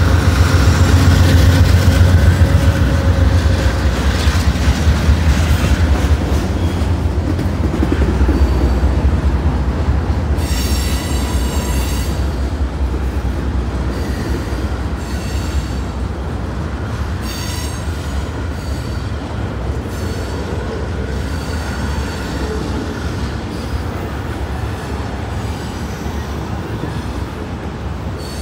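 Norfolk Southern freight train passing below, led by GE diesel locomotives. Their low rumble is loudest in the first few seconds, then the rolling cars carry on with high-pitched wheel squeal, strongest about ten seconds in, and clacking over the rails. The whole sound slowly fades.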